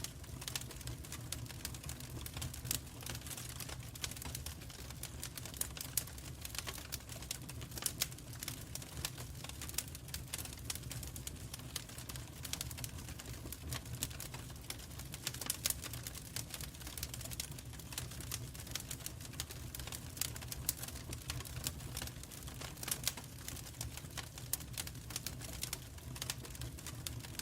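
Wood fire crackling and popping in a fireplace: constant irregular sharp snaps over a steady low rumble.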